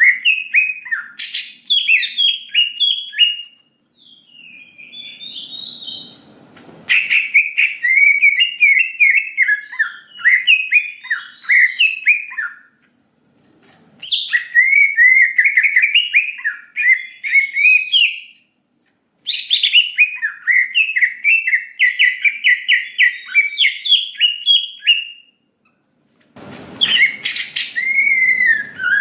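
Cucak ijo (green leafbird) singing loud, rapid phrases of varied chirps and trills, each a few seconds long with short pauses between. Near the end a rustling noise comes in under the song.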